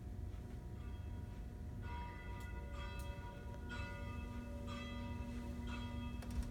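Church bells ringing, a series of strikes starting about two seconds in, each note lingering and overlapping the next, over a low, steady rumble.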